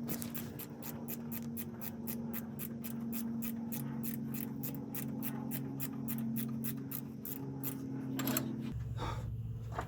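Ratchet wrench clicking steadily, about four to five clicks a second, as a starter bolt is turned down; the clicking stops near the end.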